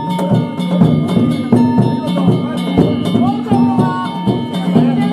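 Danjiri float percussion: drum and metal gongs beaten in a steady repeating rhythm, with crowd voices calling over it.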